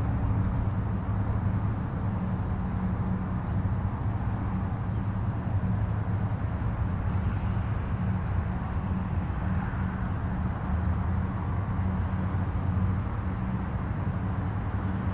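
Steady rumble and tyre hiss of distant highway traffic, an even wash of passing vehicles with no single car standing out. A faint, fast ticking sits high above the rumble, like insects.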